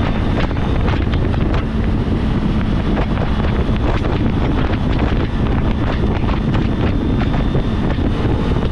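Wind buffeting the microphone over the steady running of a Kawasaki Z400's parallel-twin engine at riding speed.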